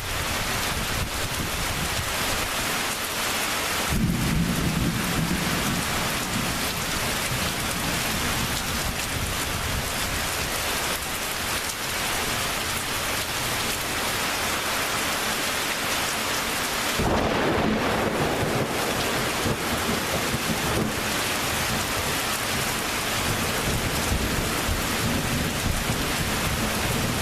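Thunderstorm: steady heavy rain, with thunder rumbling in suddenly about four seconds in and again with a sharper crack about seventeen seconds in.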